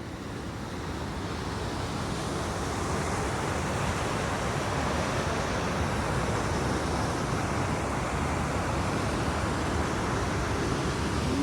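Steady rush of a cataract waterfall's falling water, swelling a little over the first couple of seconds and then holding even.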